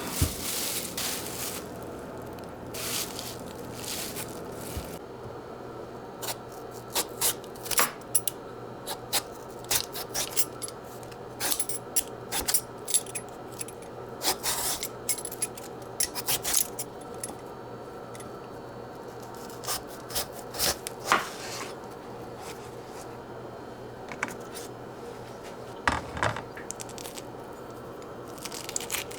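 Scattered light clicks, taps and scrapes of small hard objects being handled and set down, typical of dishes and utensils in a kitchen, over a steady low hum.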